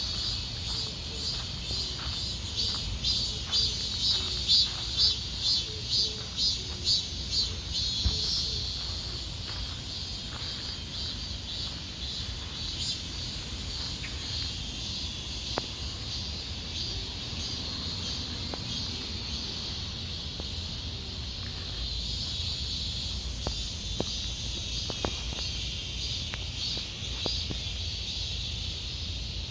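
Insects chirring in a pine wood: a high call pulsing about twice a second for the first eight seconds, then running on as a steady high drone, over a low background rumble.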